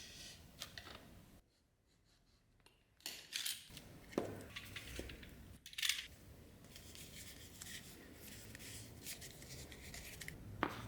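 Hand-tool work on a workbench: scratchy cutting and rubbing sounds with a few sharp clicks. About a second and a half in, the sound drops out for a second and a half, then the work resumes.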